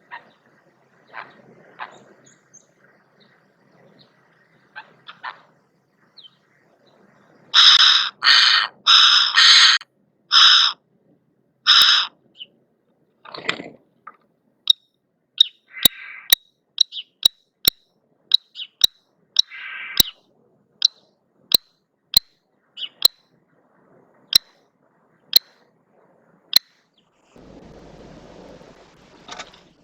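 Wild birds calling: about six loud, harsh calls close together, followed by a long run of sharp clicks at about two a second with a couple of rougher calls among them.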